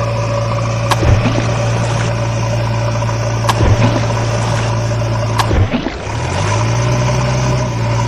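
Vehicle engine idling with a steady low hum. Four sharp clicks fall about two seconds apart, and the hum breaks off briefly a little past the middle before it returns.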